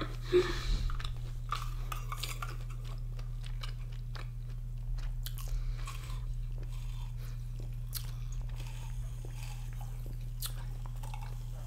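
Close-up chewing of loaded fries with cheese and chicken: many small, soft mouth clicks and crunches, over a steady low electrical hum.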